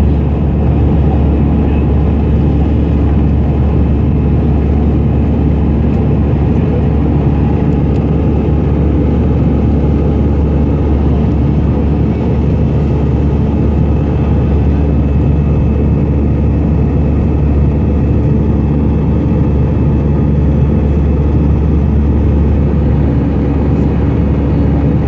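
Airbus A320's CFM56 jet engines and airflow heard inside the cabin during the departure: a loud, steady rumble with a few faint steady tones above it.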